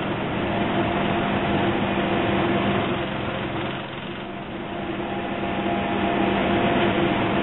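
Docklands Light Railway train standing at the platform, its on-board equipment giving a steady hum: a constant low tone with a couple of higher ones over an even noisy background, easing off a little about four seconds in.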